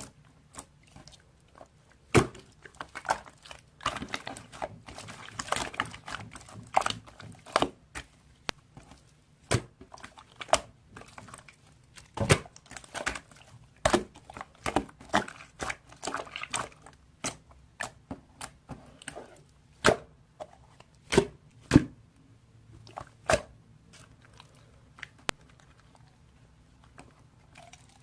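Glossy, jam-textured slime being pressed and stretched by hand, giving irregular sharp sticky clicks and pops with short squishing sounds in between.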